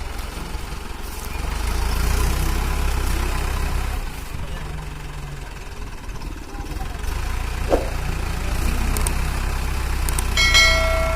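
Mahindra tractor diesel engine running steadily with a heavy low rumble, growing louder about two seconds in. Near the end a short, high-pitched tone sounds for about a second.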